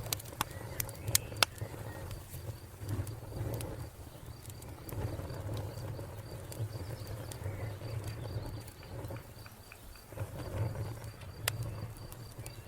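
Wood fire crackling, with a few sharp pops in the first second and a half and another near the end over a low steady rumble. Crickets chirp throughout in a fast, even, high-pitched pulse.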